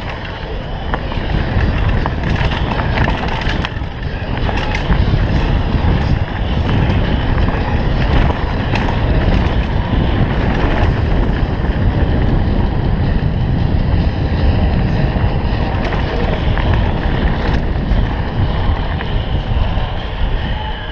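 Mountain bike riding down a rough dirt trail: a steady rumble of tyres and wind noise on the microphone, broken by many small clicks and rattles from the bike over the bumps.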